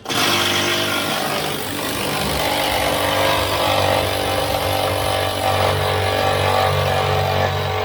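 A machine starts abruptly and runs steadily and loudly, a low motor hum under a broad hiss.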